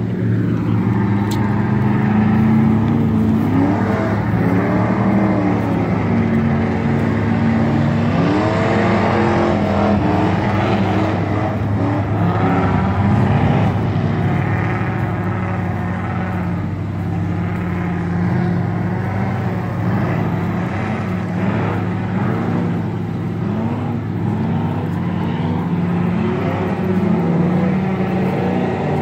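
Ford pickup truck engine running under load through mud, revving up and easing off over and over.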